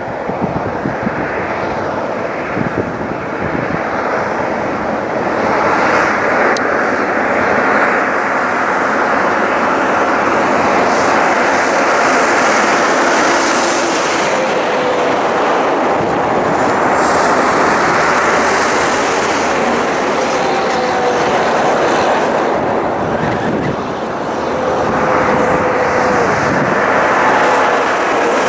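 Heavy-haulage trucks of an oversize convoy going by: loud, steady engine and tyre noise that swells and eases several times as the trucks pass.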